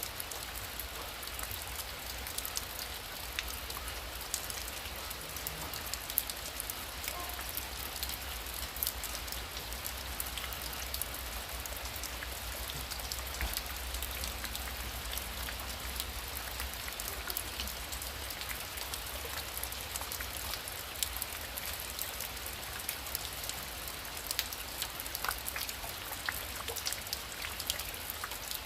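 Heavy rain falling steadily, with many separate drop ticks over a dense hiss and a low rumble underneath.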